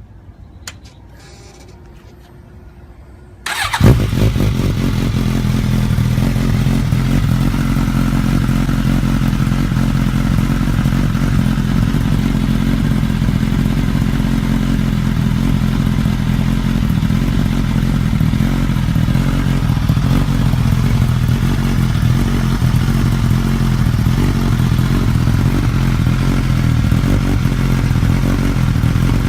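Suzuki GSX-S1000's inline-four engine starting about four seconds in with a sharp burst, then idling steadily through its exhaust.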